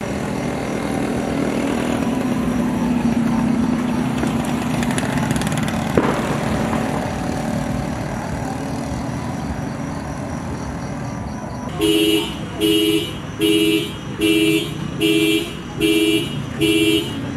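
Street traffic noise, then a car horn sounds a series of evenly spaced beeps, about eight of them, a little over one a second, starting about twelve seconds in.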